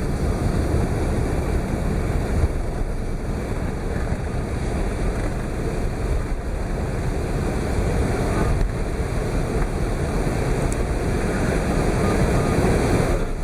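Steady rumble inside the cabin of an Airbus A380 on the ground just after landing: the engines and wheels running as the aircraft rolls, with no distinct events.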